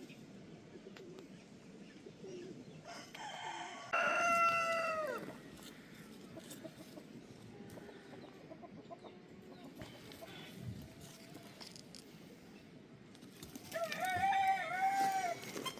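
Rooster crowing twice, two long calls about ten seconds apart, the first falling in pitch at its end, with fainter bird calls in between.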